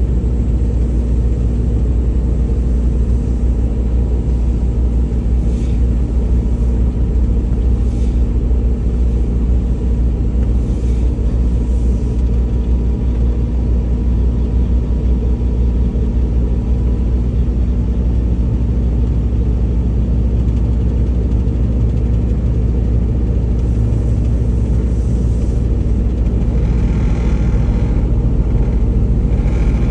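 Semi truck driving at a steady speed: a loud, even low rumble of engine and road noise.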